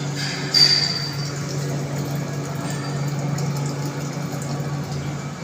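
A steady low mechanical hum, with one short high-pitched ping about half a second in.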